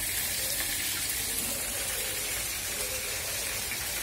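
Rice with soy sauce sizzling in a hot steel kadhai over a gas flame: a steady, high hiss with no break.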